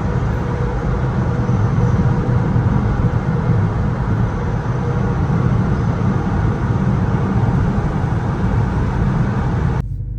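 Steady vehicle rumble, a dense low road-and-engine noise, which cuts off abruptly near the end.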